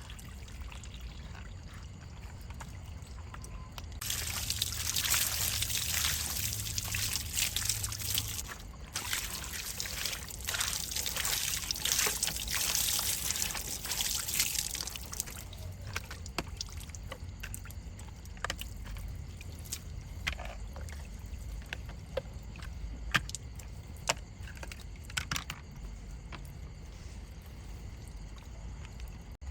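Water spraying and trickling over a die-cast model truck as it is rinsed. A loud hiss of spray starts about four seconds in and runs for about ten seconds, with a brief break near the start of it. Then quieter trickling and scattered small clicks and taps follow.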